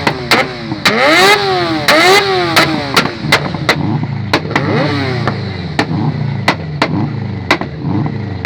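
A high-revving engine blipped over and over, its pitch rising and falling with each blip, with sharp exhaust pops and cracks throughout. The blips are strongest in the first three seconds and smaller and quicker after that, while the cracks carry on.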